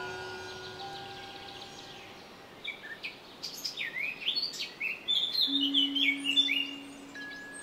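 Metallic ringing tones from a rod-mounted cymbal installation fade away, and from about three seconds in a bird chirps and calls in quick rising and falling notes. A low steady tone hums under the calls near the end.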